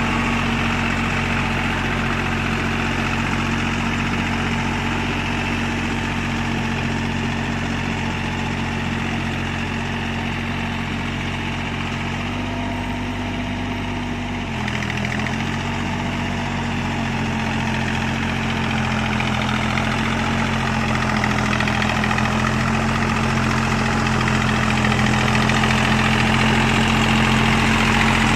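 Deutz-Fahr Agrolux 50 4WD tractor's diesel engine running steadily. Its pitch shifts briefly about halfway through, and it grows slightly louder near the end.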